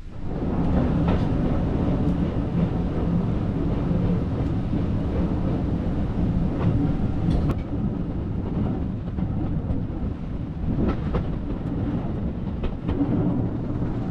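Heritage steam train moving along the line, heard from on board: a steady low rumble of the carriage on the rails with occasional clicks from the wheels.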